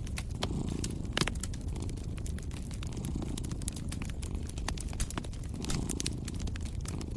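Wood fire crackling, with scattered sharp pops, over a steady low rumble of a cat purring.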